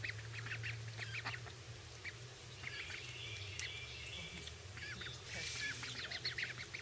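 Ducklings peeping: many short, high calls overlapping one another, over a low steady hum.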